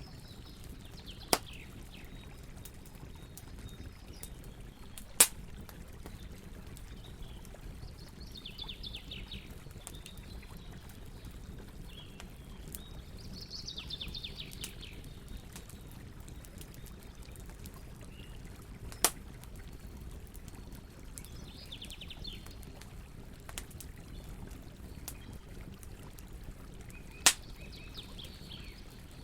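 Campfire crackling over a steady low rumble, with four sharp pops standing out above the crackle. A bird sings a short trilling phrase every several seconds.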